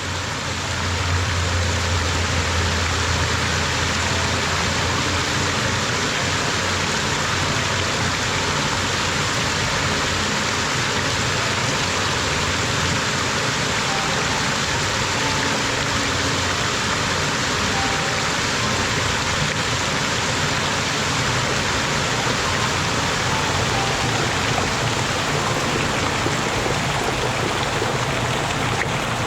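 Spring-fed water falling and splashing in a steady, unbroken rush.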